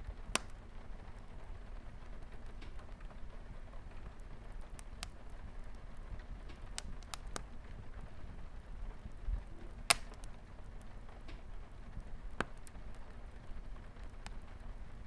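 Wood fire crackling, with irregular sharp pops, over a steady patter of light rain on a window. One pop about two-thirds of the way through is much louder than the rest.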